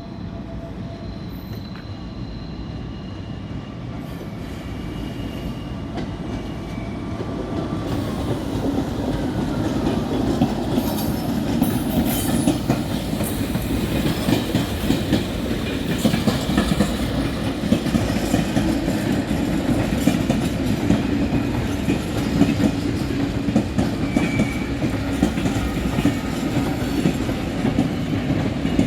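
A train approaching and passing, its rumble growing louder, with wheels clacking over the rail joints more and more from about a third of the way in.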